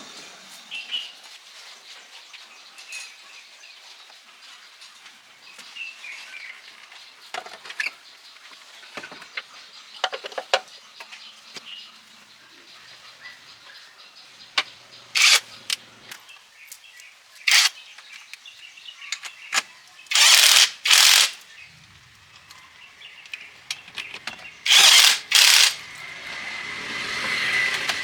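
Scattered small clicks and knocks of hand work, then several short, loud bursts of hiss: one, another a couple of seconds later, then two quick pairs near the end. Faint bird chirps sound in the background.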